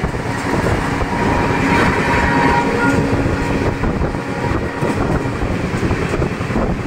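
Kavi Guru Express passenger train running at speed, with the loud, steady noise of its wheels on the rails.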